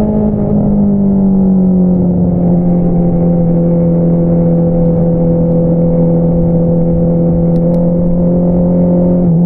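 2022 Honda CBR650R's inline-four engine through an Akrapovič single-outlet exhaust, running while riding. The pitch eases down a little over the first two seconds, holds steady, then dips slightly again near the end.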